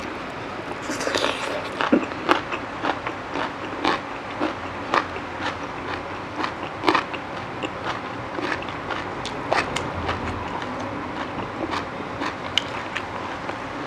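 A person chewing crisp raw vegetables and spicy long-bean salad, close to a clip-on microphone: irregular sharp crunches, a few a second.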